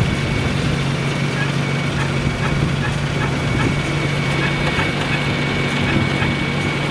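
Lancia Delta Integrale rally car's turbocharged four-cylinder engine idling steadily, with a thin, steady high-pitched whine over the engine note.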